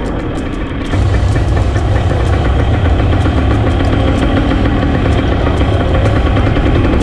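An engine idling with a heavy low rumble that gets louder about a second in and then holds steady.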